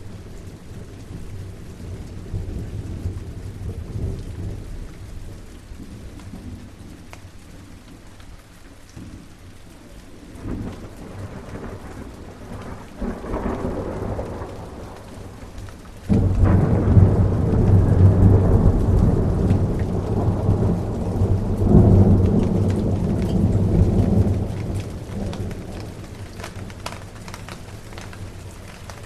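Steady rain with thunder. A low rumble builds about ten seconds in. Then a sudden loud thunderclap about sixteen seconds in rolls on for several seconds and fades.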